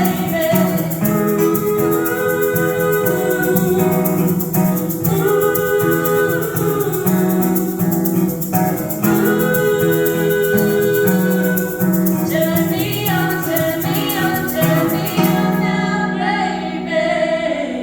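Live performance of a song: singing over plucked guitar with a shaker keeping a fast steady rhythm, ending on a held final chord near the end.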